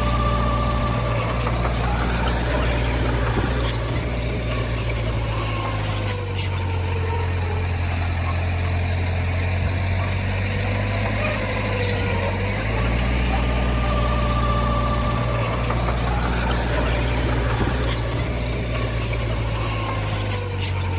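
Diesel engine of heavy earthmoving machinery running steadily, its low note shifting down and back up twice as the load changes, with a wavering whine above it and a few sharp clanks.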